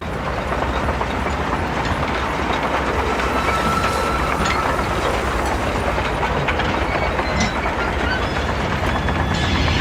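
Train running along the rails, a steady rumble and rattle that starts abruptly.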